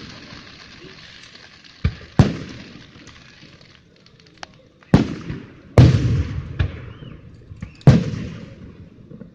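Aerial fireworks exploding: a run of about six sharp bangs at uneven gaps, each trailing off in a low rumbling echo.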